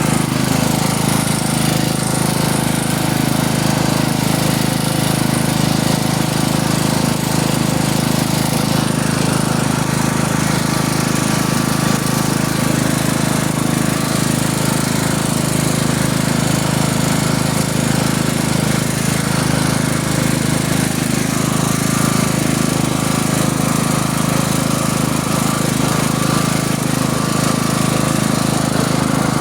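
An engine running steadily at a constant speed with a rapid, even chugging pulse.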